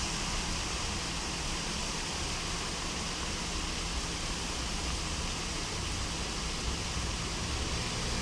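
Steady rushing of floodwater running along a street after a heavy downpour, an even, unbroken wash of water noise.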